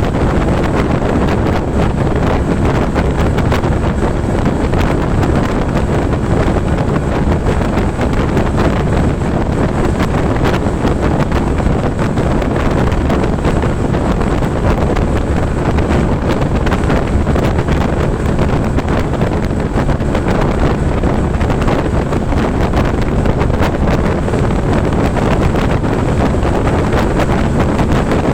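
Steady wind rush buffeting the microphone of a Honda ADV 150 scooter ridden at speed, with the scooter running underneath. The sound holds level throughout, with no change in pitch.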